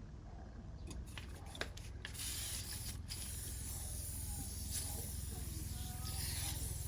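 Aluminium cylinder head being rubbed back and forth on WD-40-wetted 120-grit sandpaper over a flat tile, a steady abrasive hiss that swells gently, after a few light clicks in the first two seconds.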